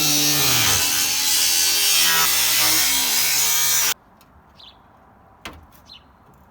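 A power tool grinding sheet steel, loud and continuous, over rock music. It stops abruptly about four seconds in. Then it is quiet, with faint birdsong and a couple of light clicks.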